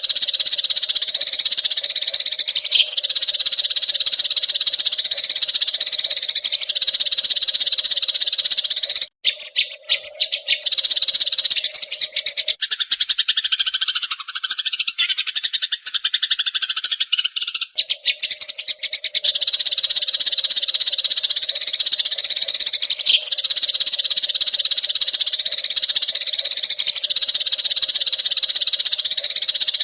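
Eurasian tree sparrows chirping in a dense, rapid, unbroken chatter. It drops out in the middle for several seconds, during which a lower-pitched, different call is heard, and then resumes.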